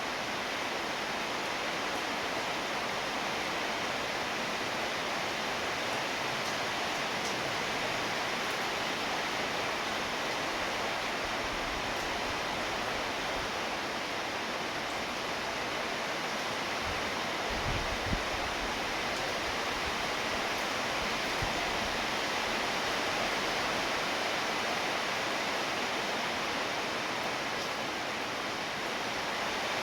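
Steady rainfall, an even hiss of falling rain. A brief low thump comes a little over halfway through.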